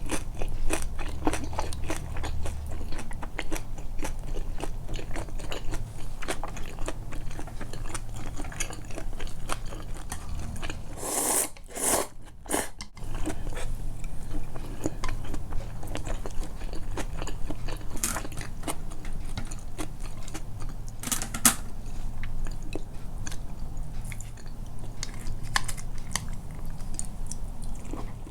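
Close-up chewing and biting sounds of someone eating tempura and soba: a continuous run of small wet mouth clicks and bites. The tempura is soggy rather than crisp. A few louder, short noisy sounds stand out about eleven seconds in and again around eighteen and twenty-one seconds.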